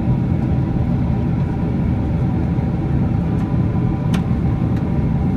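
Boeing 767-300 airliner on approach: a steady low rumble of jet engines and airflow with a faint steady whine, and a brief click about four seconds in.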